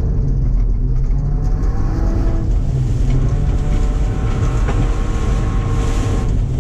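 2007 Subaru Impreza's flat-four boxer engine running on a cool-down lap. Its pitch climbs gradually, dips about two and a half seconds in, then climbs again.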